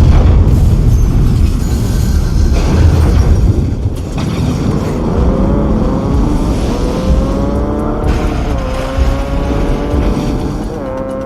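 Film chase sound effects: heavy vehicle engines with a loud low rumble that starts suddenly, then an engine whine rising slowly in pitch over several seconds as it revs up.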